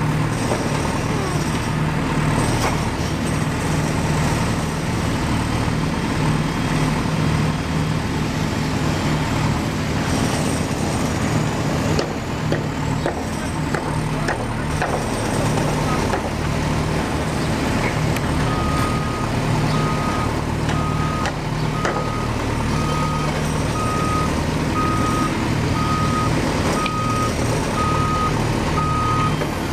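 Truck engine running steadily. About two-thirds of the way in, a reversing alarm starts beeping about once a second.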